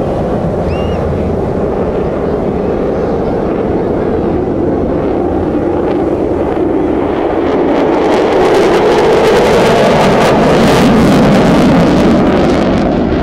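Jet aircraft flying past, a steady roar that builds to a crackling peak in the second half and then starts to fade near the end.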